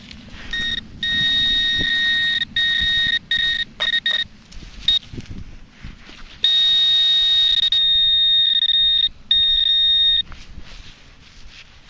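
Metal detecting pinpointer sounding a steady high buzzing tone: first in short on-off bursts, then held for several seconds with one brief break. The tone signals a metal target close to the probe's tip in the dig hole.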